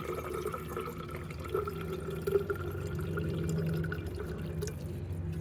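Filtered water trickling and dripping from a gravity water filter's outlet into a container, over a faint steady hum.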